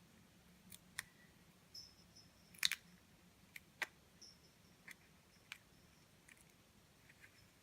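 Faint, scattered small clicks and ticks of handling a paper planner sticker as it is peeled from its sheet and placed on the page, the loudest a quick double click a little under three seconds in.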